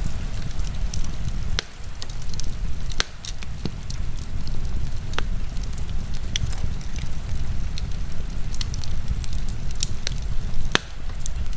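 Wood fire crackling with irregular sharp pops, a few louder than the rest, over a steady low rumble of heavy rain.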